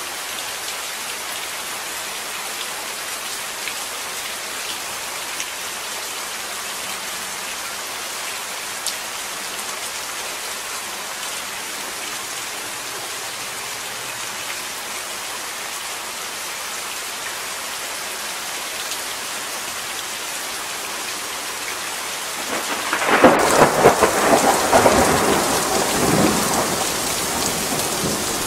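Steady rain falling in a continuous even hiss. About 23 seconds in a loud crack of thunder breaks in and rumbles on for several seconds, slowly easing off.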